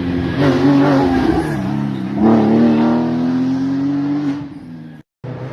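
Rally car engine under hard acceleration, its pitch dipping at a gearshift about two seconds in, then climbing steadily before fading. The sound cuts off abruptly near the end.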